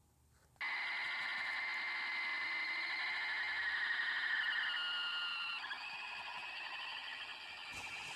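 A loud electronic alarm-like tone, several pitches held together, starts suddenly about half a second in and shifts in pitch about five and a half seconds in.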